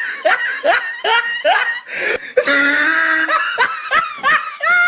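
High-pitched human laughter in a run of short bursts, with one longer held note about halfway through.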